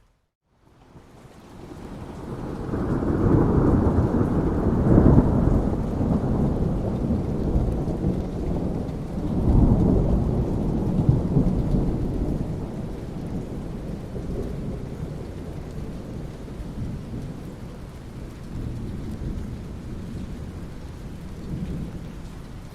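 Thunderstorm: steady rain with rolling thunder, two long deep rumbles swelling up about three and ten seconds in, then dying away into fainter rumbling. The sound cuts out to silence for a split second at the very start.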